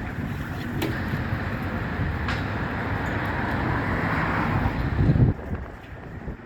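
Heavy demolition excavator's diesel engine running, with a couple of sharp knocks, swelling to its loudest about five seconds in and then dropping away suddenly.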